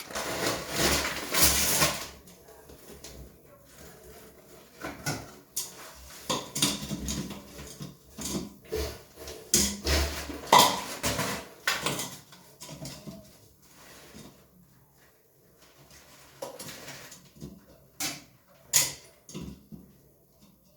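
Irregular knocking, clattering and scraping of hard objects, as in tools and fittings being handled during toilet repair work. The sounds come thick in the first half and thin out toward the end, with a couple of sharp knocks near the end.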